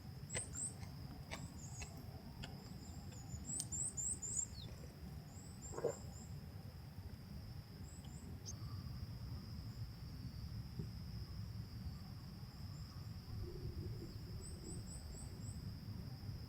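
Outdoor ambience: a steady high insect trill with runs of short, quick high chirps in groups of three to five, over a low rumble. A single knock about six seconds in.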